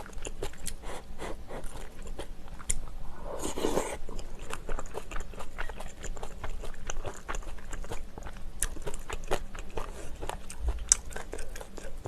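A person chewing food close to the microphone: a steady run of wet smacks, crunches and small mouth clicks, with a brief hum about three and a half seconds in.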